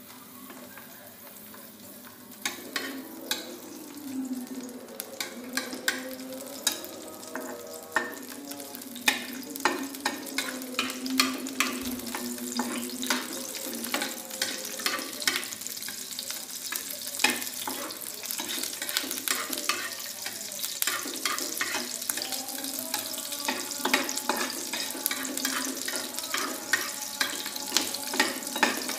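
Sliced shallots and garlic frying in cooking oil in a small pan, sizzling steadily, while a utensil clicks and scrapes against the pan as they are stirred. The sizzle grows louder after the first few seconds, and the clicks come more often in the second half.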